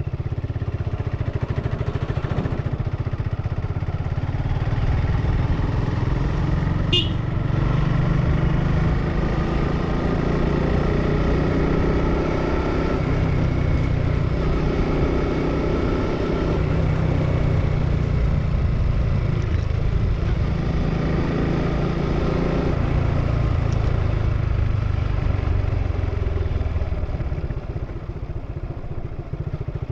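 Suzuki Gixxer single-cylinder motorcycle engine with its stock exhaust, running under way, its note stepping up and down as the bike rides on. A short high squeak sounds about a quarter of the way through.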